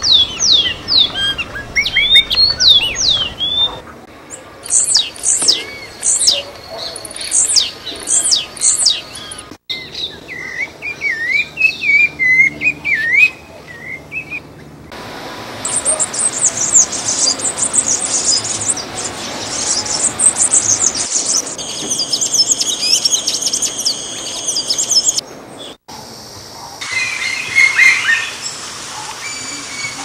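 Several different small birds singing and calling in turn, in segments that change abruptly every few seconds. First come quick slurred chirps and high whistled notes, then a lower run of warbled notes near the middle, then a dense, high twittering chorus.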